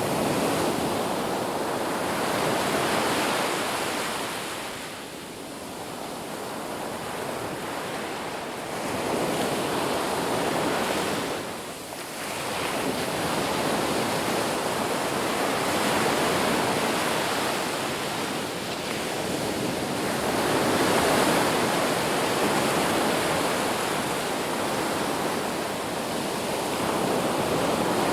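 Ocean waves breaking and washing on a beach, a continuous surf rush that swells and eases every few seconds, with a brief lull about twelve seconds in.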